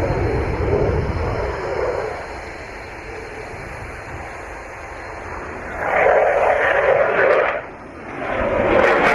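Aircraft engine noise with a low rumble, fading away over the first two seconds, followed by two sudden stretches of rushing noise later on.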